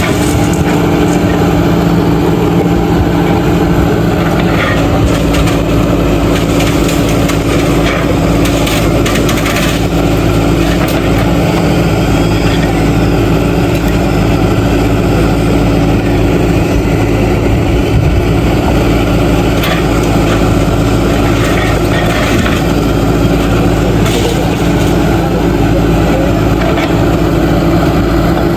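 JCB 3DX backhoe loader's diesel engine running steadily at a constant pitch, with scattered knocks and cracks of broken bricks and stone being moved.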